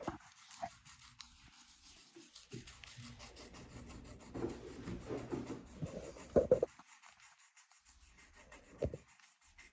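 A pencil scribbling on paper in quick circular strokes, a soft, scratchy rubbing, with a brief louder scrape about six seconds in.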